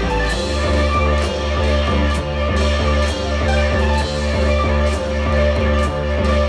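Live folk band playing an instrumental passage: guitar and electronic sounds over a deep, sustained bass note, with a steady drum beat.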